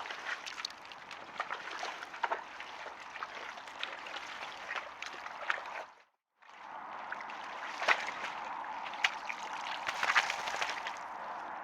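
Wild boars wallowing in a muddy pool: water and mud sloshing and splashing, with many small wet clicks. It breaks off into a brief silence about six seconds in, then starts again.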